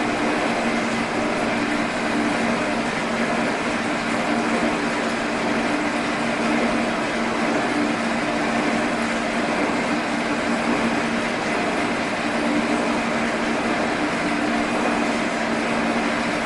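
Machine tool running steadily while cutting aluminum, a constant motor hum over an even mechanical noise.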